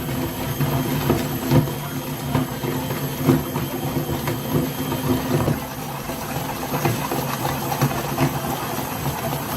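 Electric meat grinder motor running steadily, with irregular cracking and clicking as something is forced through the grinder.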